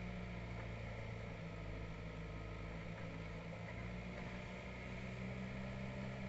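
Diesel engine of a heavy vehicle, a tractor or backhoe loader, running steadily at an even, low pitch.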